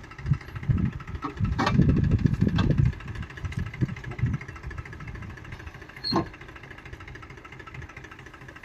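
A diesel engine of a farm machine runs steadily, with a loud uneven low rumble in the first three seconds. There are two sharp clicks, one near the start and one past the middle.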